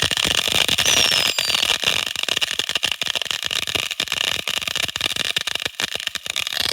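Consumer firework cakes firing together in a finale: a dense, rapid, continuous crackle of small pops, with a short falling whistle about a second in.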